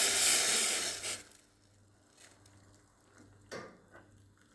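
Hot water being poured into the noodle cup, a steady hiss that stops about a second in, followed by a couple of light knocks.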